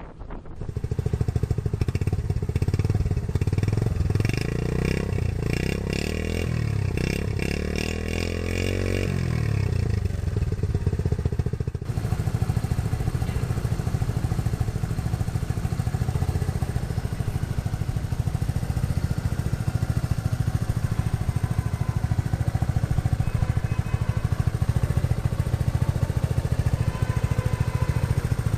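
Honda 70cc single-cylinder four-stroke motorcycle engine running. It is revved up and down a few times during the first ten seconds, then idles steadily.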